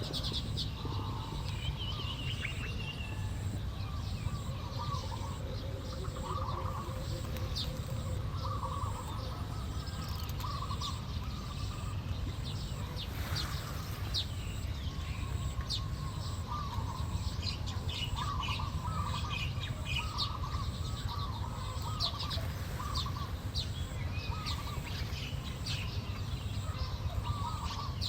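Small weaver birds chirping and chattering in short repeated bursts, over a steady low rumble.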